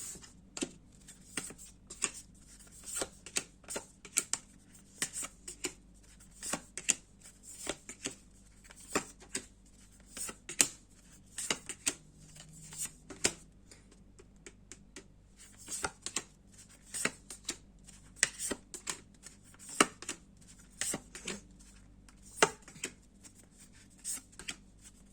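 Tarot cards being shuffled and handled, a long run of quick, irregular flicks and snaps of card stock.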